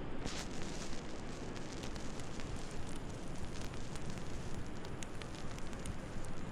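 Wood fire crackling in a fireplace: scattered sharp pops and snaps over a steady hiss.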